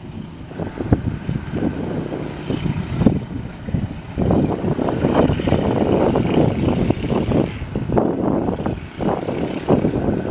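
A train passing over a level crossing close by: a loud rumble with many irregular clattering knocks, loudest in the middle.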